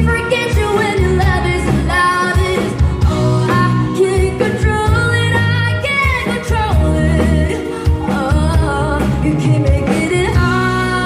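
Live band music with a singer's voice gliding over a heavy bass line, played loud through stage speakers.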